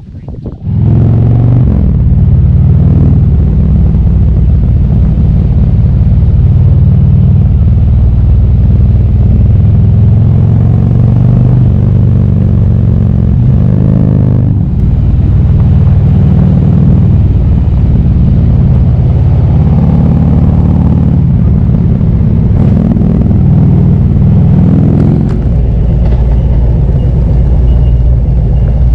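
Motorcycle engine running as the bike is ridden along the road. It gets loud about a second in, and its pitch rises and falls as the speed changes.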